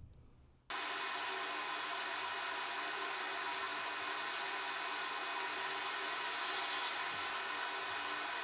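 Steady, even hiss of air-moving machinery running, cutting in abruptly about a second in and holding at one level.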